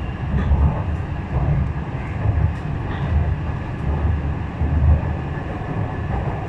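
Metro train running at speed, heard from inside the car: a continuous low rumble of wheels on track that swells unevenly, with a faint steady high tone above it.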